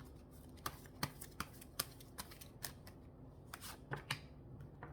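Symbolon cards being shuffled and handled by hand: faint, irregular soft clicks and flicks of card stock.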